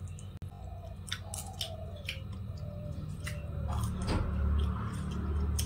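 A person biting into and chewing a piece of fried chicken, with scattered small mouth clicks; a low rumble builds in the second half.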